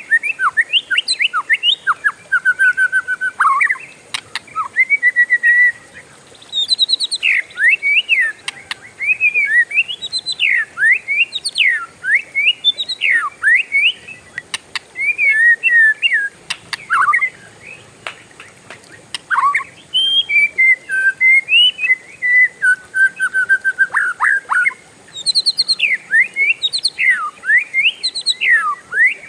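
Oriental magpie-robin (kacer) singing a long, continuous rolling song: a fast run of varied clear whistles, quick rising and falling slurs and rapid trills, broken only by a couple of brief pauses.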